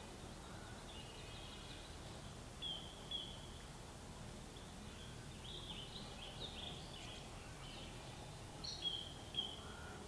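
Small birds chirping in short high notes: a pair about three seconds in, a busier run of chirps in the middle, and a louder pair near the end, over a faint steady background hiss.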